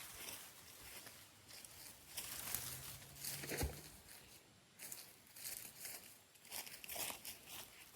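Irregular rustling and crackling of dry leaves and twigs being handled, with a dull thump about three and a half seconds in.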